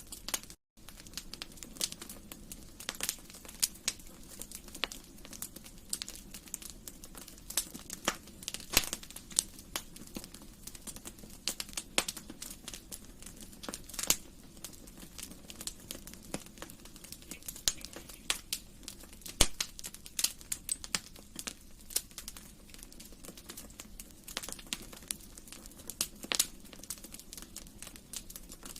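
Wood fire in a fireplace crackling: irregular sharp pops and snaps over a steady low hiss of burning. The sound cuts out completely for a split second near the start.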